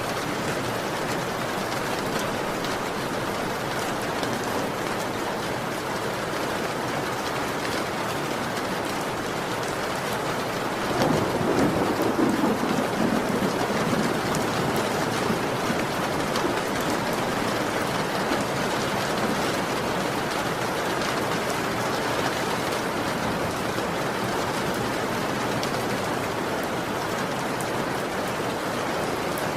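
Heavy rain falling steadily, with a roll of thunder that rumbles up about a third of the way through and dies away over several seconds.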